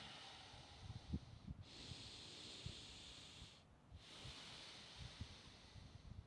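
Deep, rhythmic Wim Hof power breathing: forceful breaths drawn and let out through the mouth, about one every two seconds, each a rush of air with a short break between.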